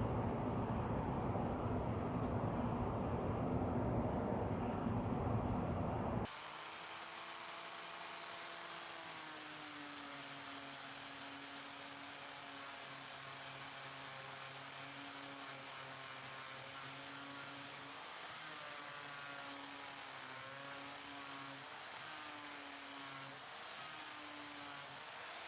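Electric power tool running with a dense, loud noise; about six seconds in it cuts off abruptly to a quieter, steady motor hum whose pitch wavers slightly.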